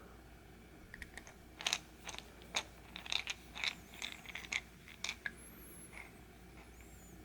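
Small metal parts being handled: a run of about a dozen sharp, irregular clicks and taps from about one second in to past the five-second mark, with faint high squeaks near the end.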